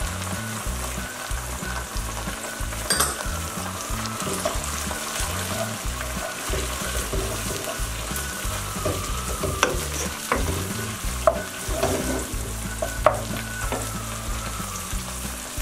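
Chopped onions and fresh ginger frying in oil in a nonstick pot, sizzling steadily while being stirred with a wooden spoon. A few sharp taps of the spoon against the pan.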